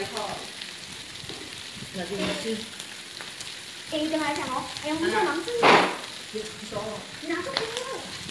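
Food sizzling and frying on an electric tabletop grill pan, with voices at times and one short, louder burst of noise a little past halfway.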